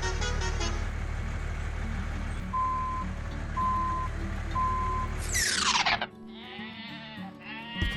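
Truck engine running steadily as a horn sound fades out under a second in, then three evenly spaced reversing beeps; about five and a half seconds in, a quick falling whoosh cuts it off, followed by bleating calls.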